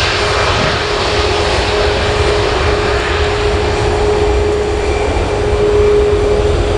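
Boeing 787-9 jet engines running: a steady rumble with one held tone above it that swells slightly later on, over a continuous hiss.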